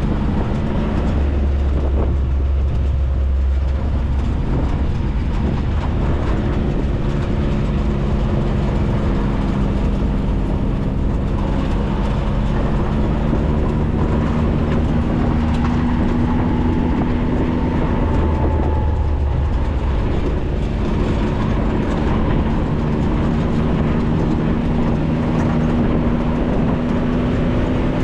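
Maverick 4x4's engine running steadily while driving off-road, with a constant drone whose pitch slowly rises through the second half, over a low rumble.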